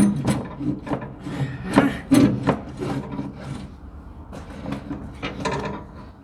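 Repeated scraping and rubbing strokes, about two to three a second, loud at first and fainter after about three seconds.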